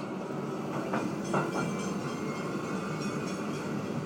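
Passenger train running, heard from inside the carriage: a steady rumble, with a few short knocks or clicks about a second in.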